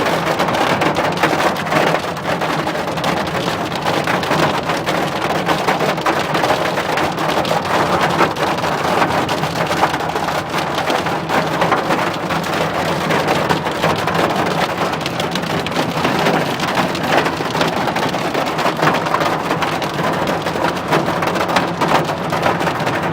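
Heavy rain mixed with hail pelting down: a dense, steady clatter of countless small impacts.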